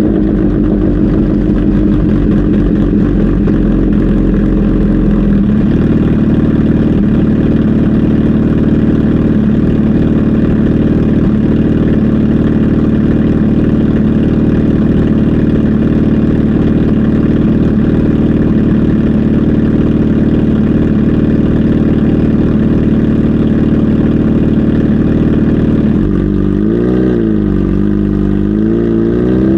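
Kawasaki Z H2 SE's supercharged inline-four engine running at a steady speed, its pitch shifting slightly about five seconds in, then revving up and down a few times near the end.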